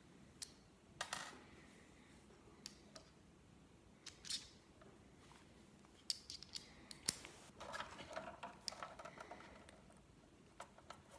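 Quiet clicks and short scrapes of small plastic parts and a flat tool as a new gear is pressed down flush onto its shaft in the fish's gearbox, with a busier run of clicking and scraping about six to nine seconds in.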